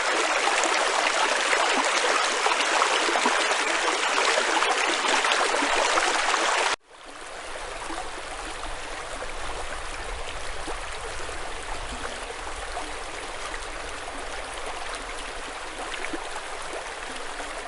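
A stream running and splashing over stones, loud at first. After a sudden cut about seven seconds in, the water is quieter, with a low rumble underneath.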